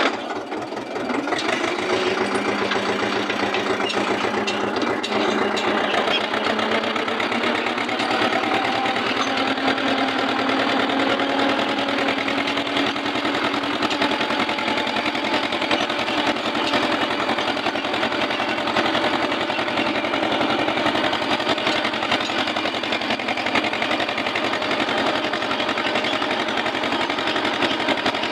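Eicher tractor's diesel engine running with a rapid, even firing beat. Its pitch rises about a second in, then it holds steady.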